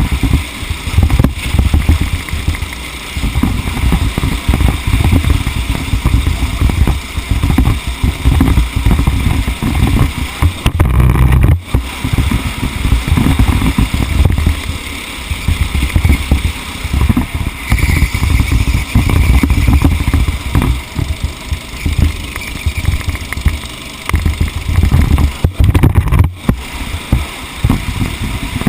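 A racing engine heard on board, loud and rising and falling with the throttle as the vehicle laps, with brief lifts off the throttle about eleven seconds in and again near the end.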